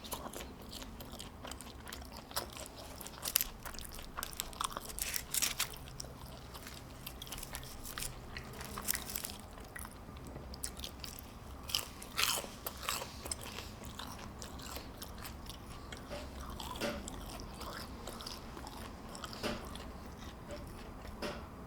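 Close-miked chewing and crunching of fast food, with many short, sharp mouth clicks and crackles throughout.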